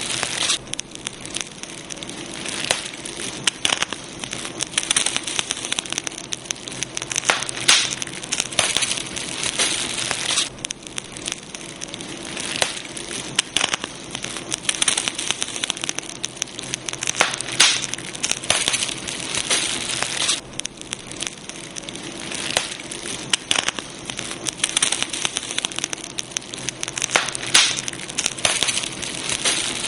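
Campfire burning: wood crackling with many sharp, irregular pops and snaps over a steady hiss.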